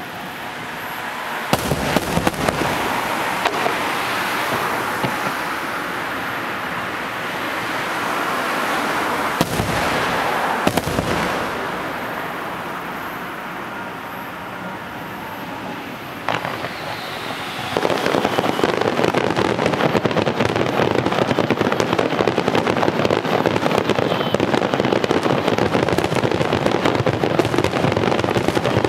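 Fireworks display finale: a few sharp booms of shells bursting, then about two-thirds of the way in a dense, continuous crackling of many shells going off at once.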